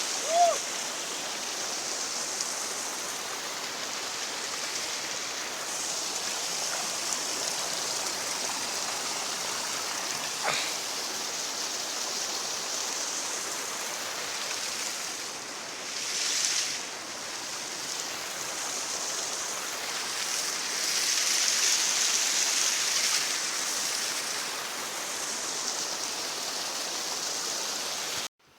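Rushing water of a stream, a steady hiss that swells and eases a little at times. A brief pitched sound comes just after the start, and the sound cuts off suddenly near the end.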